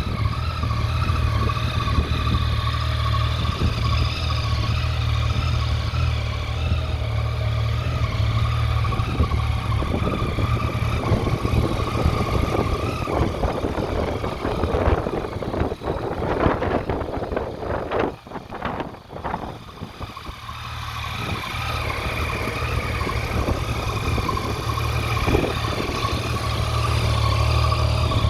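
Yamaha XSR900's three-cylinder engine running at a steady note, with an uneven stretch of throttle changes in the middle where it briefly drops away, then settling back to a steady run.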